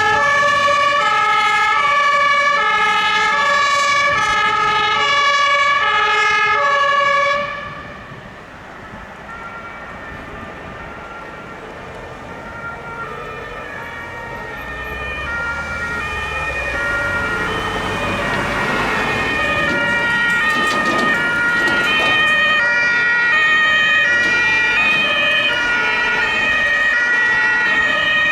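German emergency-vehicle two-tone horns (Martinshorn), alternating between two pitches about every half second. The first is loud, then drops away abruptly about seven seconds in; another grows steadily louder as it approaches, with engine and tyre noise from a passing vehicle midway.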